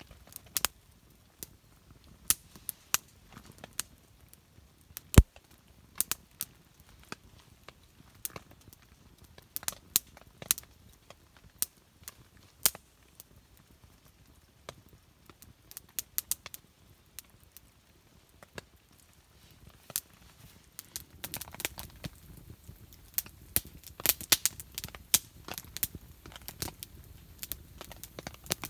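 Wood fire crackling with sharp, irregular pops, which come thicker near the end over a soft rustling.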